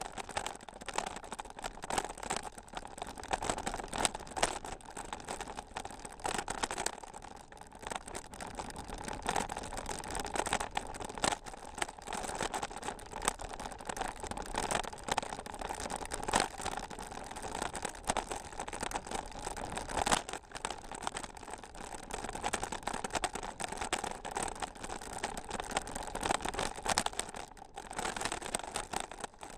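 Bicycle jolting over a very rough unpaved trail: a dense, constant rattling and clicking from the bike and the mounted camera, with tyres crunching over the surface.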